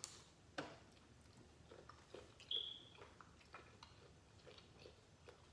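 Faint close-up chewing and lip smacking of a person eating seafood by hand, with scattered soft clicks and one brief high squeak about two and a half seconds in.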